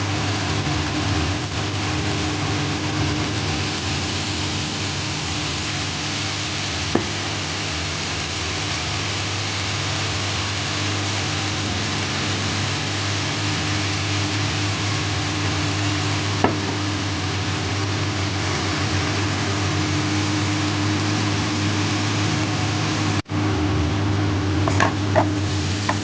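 Rice frying in a nonstick pan, a steady sizzle with a low hum under it. A few single sharp taps come through, and near the end a quick run of clinks as a spatula stirs the rice.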